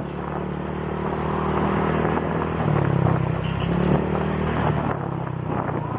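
Honda Click scooter's single-cylinder engine running through an aftermarket exhaust pipe while riding, with a steady hum that rises and grows louder a couple of seconds in, then eases off.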